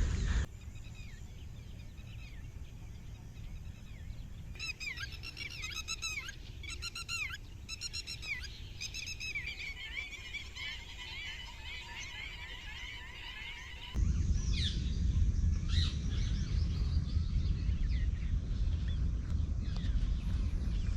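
Wild waterbirds at a wetland calling: several series of repeated short calls, then a stretch of busy chattering. About two-thirds of the way through, a louder low rumble comes in abruptly, with a few more calls over it.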